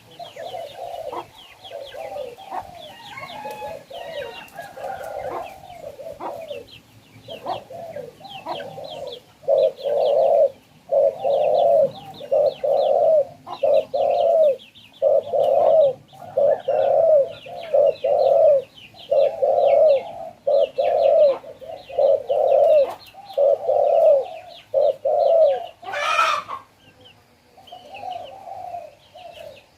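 Spotted dove cooing: a long run of low coos repeated in quick succession, loudest and most regular from about ten seconds in, with a higher, rapid chirping over it. There is a short sharp noise near the end.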